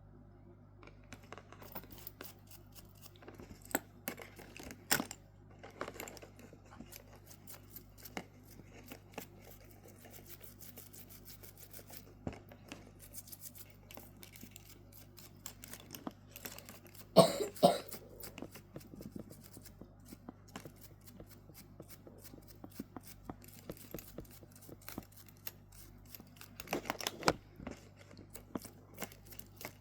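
Small clicks and scrapes of hand work on watch parts and tools, scattered throughout, with a louder burst of scraping just past halfway and another near the end. A steady low electrical hum sits underneath.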